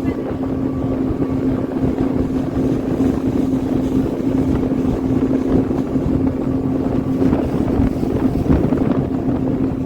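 Speedboat engine running at a steady pitch while under way, with rushing water and wind buffeting the microphone.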